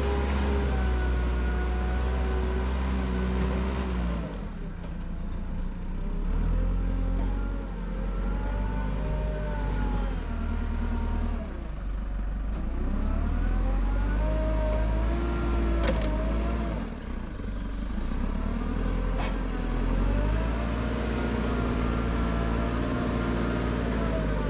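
Car engine running as the car drives along, its pitch rising and falling again and again as it speeds up and eases off, over a steady low rumble.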